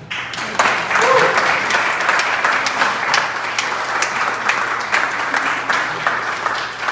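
Audience applauding, breaking out suddenly and keeping up a steady clatter of many hands clapping.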